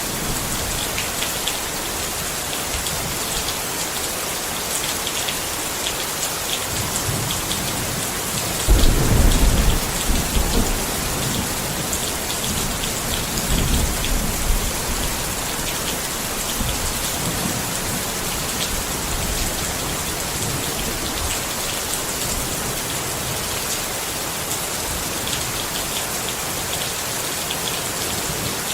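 Rain falling steadily on a tent. About nine seconds in a deep low rumble swells for a couple of seconds, with a weaker one a few seconds later.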